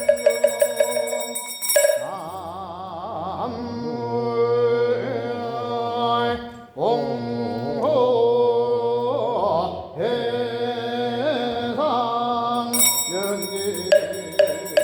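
Buddhist ritual chanting, a held and wavering sung line with a brief break around the middle. Fast, evenly repeated ringing percussion strikes sound before the chant begins and start again near the end.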